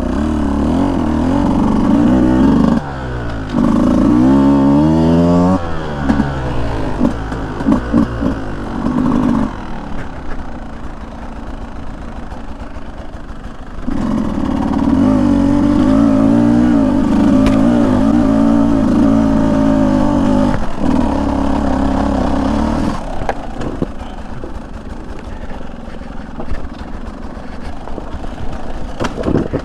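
Beta 200 two-stroke dirt bike engine revving up and down on and off the throttle, its pitch rising and falling many times. It eases to a quieter run about ten seconds in and again near the end, picking back up in between.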